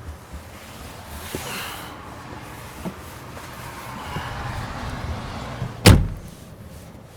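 Rustling as someone climbs into the back seat, then the rear door of a 2019 Mercedes-Benz G-Class (W464) slammed shut once, hard, about six seconds in. G-Class doors have to be slammed to latch.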